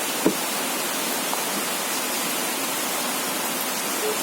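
Steady hiss of heavy rain, with a single sharp click about a quarter second in.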